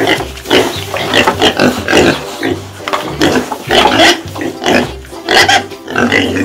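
A group of piglets grunting and squealing, many short calls overlapping one another, over background music with a steady low beat.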